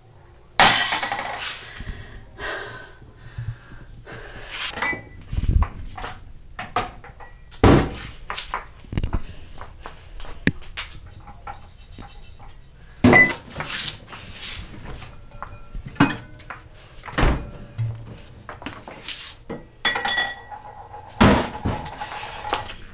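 Kitchen clatter: glasses, bottles and crockery knocked and set down on a counter. Several loud knocks spread through, some with a short ring, among smaller clinks and a few dull thunks.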